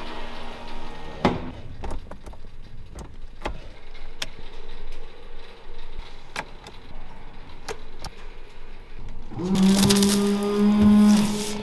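Subaru Impreza WRX STI's turbocharged flat-four engine: a quiet stretch with scattered sharp clicks, then the engine note swells loudly about nine and a half seconds in and holds a steady, slightly rising pitch before easing off near the end.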